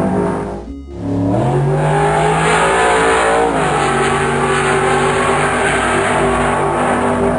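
Royal Enfield Meteor 350's single-cylinder engine under way. It dips briefly about a second in, then rises in pitch as it accelerates, holds steady, and drops in pitch around the middle before running on steadily.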